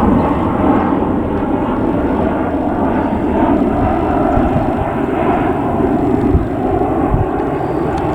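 Airbus A319-111 airliner's twin CFM56 jet engines: a loud, steady rush of engine noise.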